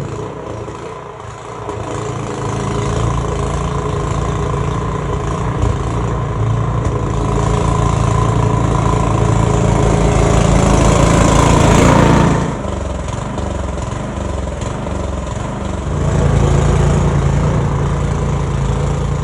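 Gasoline snowblower engine running under load in deep snow. The engine and a broad rushing noise build over several seconds, drop off suddenly about twelve seconds in, then pick up again about four seconds later.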